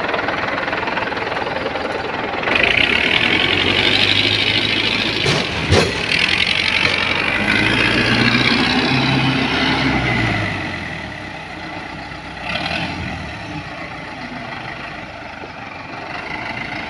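A heavy vehicle's diesel engine revving hard under load for several seconds, its pitch wavering, then easing back to a steadier, quieter run. There is a single sharp knock about five and a half seconds in.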